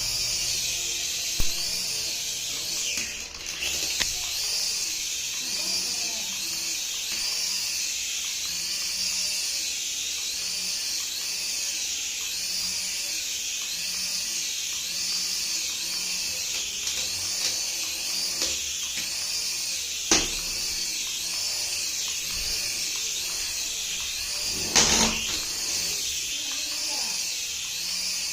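High-pitched electric whine of a battery-powered toy's small motor, wavering in a regular pulse a little over once a second. A few sharp knocks break in, the loudest about twenty and twenty-five seconds in.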